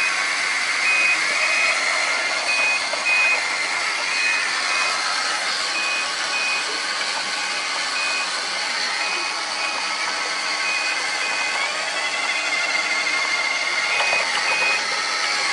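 Makita DRC200Z robot vacuum running with a steady whirring hiss, while a high electronic beep sounds in pairs about every second and a half to two seconds. The beeping breaks off for a couple of seconds near the end, then resumes.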